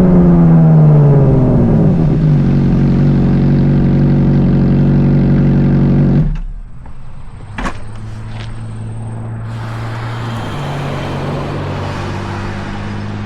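Car engine running loud, its pitch falling over the first two seconds and then holding steady. About six seconds in it cuts to a quieter steady engine hum with road and wind noise.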